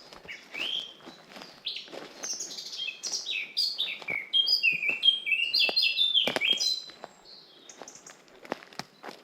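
A songbird sings a long, fast, varied phrase of short chirps and trills, loudest from about two seconds in until near seven seconds, over soft footsteps on a forest path.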